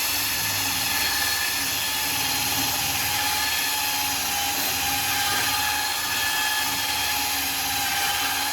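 Power tool fitted with a wire wheel running steadily at constant speed, used for stripping surface rust from bare steel.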